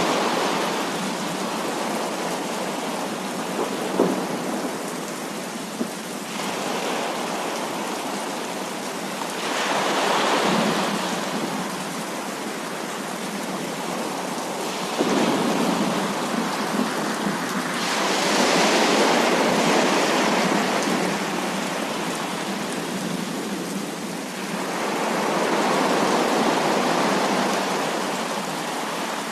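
Heavy rain falling steadily, with thunder rolling in several long swells. The strongest swell comes a little past the middle, and there are a couple of sharp cracks.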